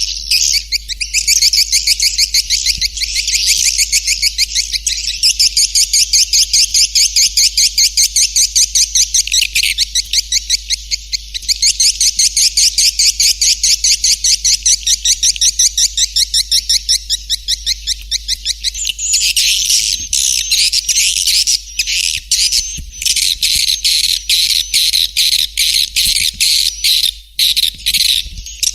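Swiftlet lure-call recording: rapid, continuous trains of high twittering chirps from swiftlets, played to call swiftlets into a nesting house. About two-thirds of the way in, the chirping turns denser and more clicky. A steady low hum runs underneath.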